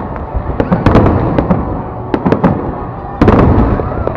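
Fireworks display going off: a rapid, irregular string of sharp cracks and bangs over a continuous rumble of shell bursts, with a heavy burst about three seconds in.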